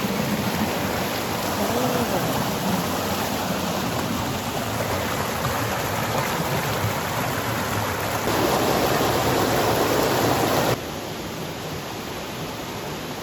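Rushing stream water running steadily. It grows louder for a few seconds, then drops off abruptly.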